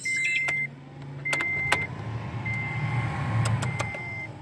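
Vehicle warning chime beeping at a steady high pitch, four beeps about a second and a quarter apart, over the low hum of a newly installed Toyota Tacoma blower motor fan, which swells through the middle. A few sharp clicks sound along the way.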